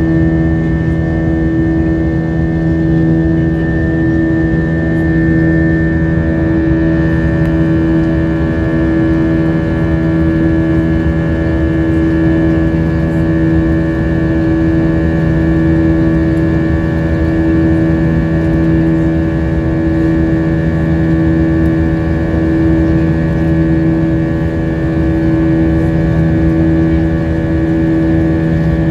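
Cabin noise inside an airborne Airbus A320-232: a loud, steady drone from its IAE V2500 turbofans and the airflow, with several held hum tones over an even rush of air.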